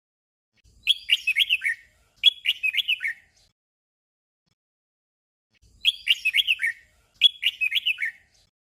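Red-whiskered bulbul singing a short warbled phrase twice in quick succession, each phrase about a second of quick rising and falling notes. The doubled phrase comes again about five seconds later.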